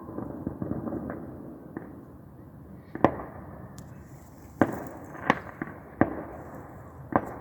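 Fireworks going off: a spell of crackling in the first second, then about five sharp bangs at uneven gaps, the first the loudest.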